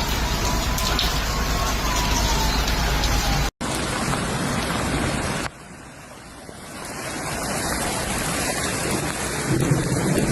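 Heavy rain pouring down in a severe thunderstorm, a dense steady hiss. It breaks at cuts between clips, falls quieter about five seconds in and builds again.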